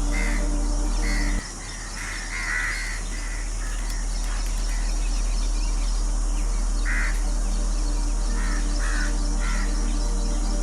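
A bird giving several short, harsh calls in scattered groups, over a steady low hum.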